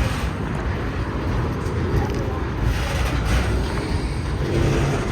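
BNSF freight train rolling past, a steady low rumble of steel wheels on rail.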